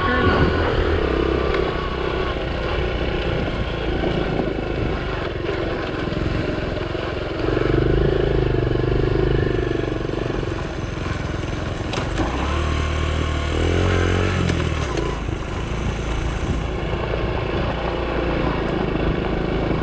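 Honda CT70's small single-cylinder four-stroke engine running as the bike is ridden along, its note swelling louder twice, about a third of the way in and again a little past the middle.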